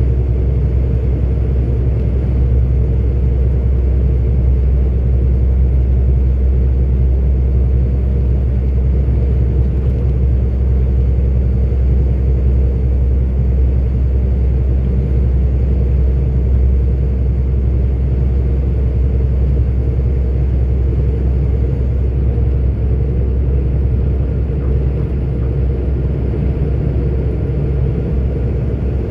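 Steady low drone of a 44-ton articulated lorry's engine and tyres while cruising, heard from inside the cab.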